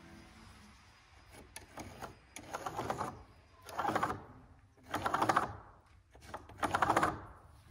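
Pencil scratching a line across the weathered wooden boards of a barn door, in four separate strokes of about half a second each with short pauses between them, the lead chattering over the rough grain.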